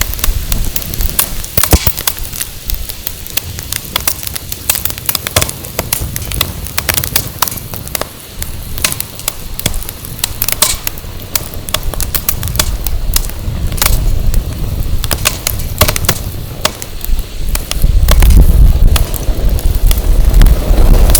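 Firewood burning in an open fire pit, crackling and popping in irregular sharp snaps. A low rumble of wind on the microphone grows louder near the end.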